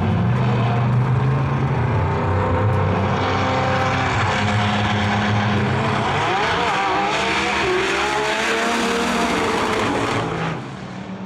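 Drag race cars launching and running hard down the track, engines at full throttle with their pitch rising through gear changes. The sound drops off sharply about ten and a half seconds in as the cars get farther away.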